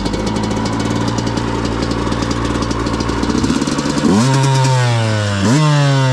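Yamaha YZ125 two-stroke dirt bike engine idling steadily. About four seconds in, it revs as the bike pulls away, its note jumping up sharply and sagging, then jumping twice more.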